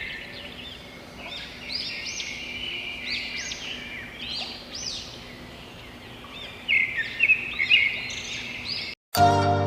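Birds chirping, a rapid series of short, high, arching notes. Just before the end the birdsong cuts off and music begins.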